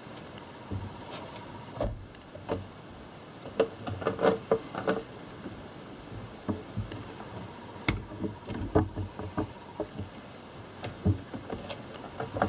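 Scattered knocks, taps and light rattles of hand work on an engine: parts, hoses and tools being handled. The knocks are irregular, with a quick cluster about four seconds in and more near the middle and end.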